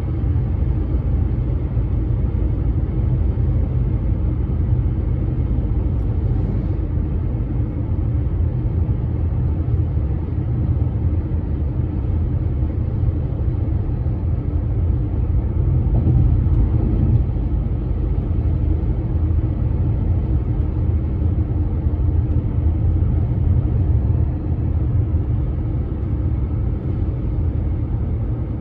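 A bridge giving off a steady, deep rumble with a faint hum above it, unbroken and with no separate knocks or clanks, like road traffic carried across the span.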